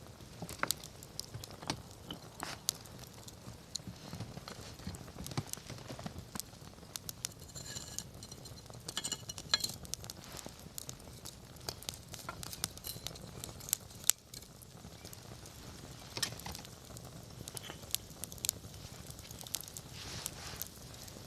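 Wood campfire crackling, with irregular sharp pops and snaps over a low rumble of flame. About eight to ten seconds in there is a brief thin, high whistling among the pops.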